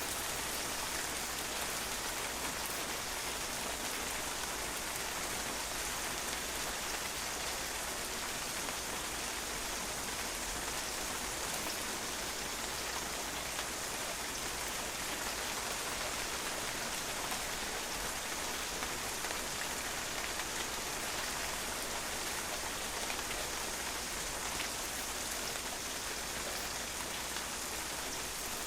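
Steady rain pattering on a patio, an even hiss of many drops with no let-up or change.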